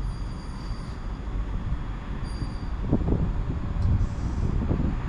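Freightliner Class 66 diesel freight locomotive, with its EMD two-stroke V12 engine, approaching on a freight train: a low rumble that grows slowly louder.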